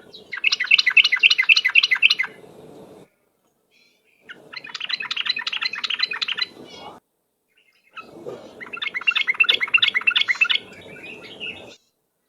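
Yellow-vented bulbul (trucuk) singing its fast, rolling 'ropel' song in three bursts of quickly repeated chattering notes, each burst a couple of seconds long with short silent gaps between.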